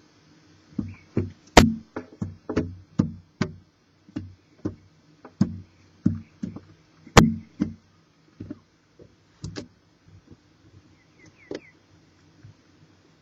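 Knocks and thumps against the wooden walls of a barn owl nest box as the owls move about inside: a quick irregular run of sharp knocks for about seven seconds, then a few scattered fainter taps.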